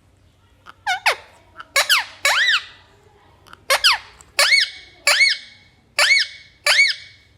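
Pet parrot giving a run of about eight short whistled squeaks, each rising then falling in pitch, loud and clear.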